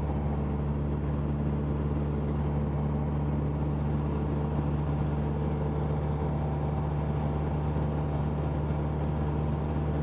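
Cessna 172 Skyhawk's piston engine and propeller droning steadily in cruise on the downwind leg, heard from inside the cockpit: a constant low hum with an even rush of air and engine noise above it.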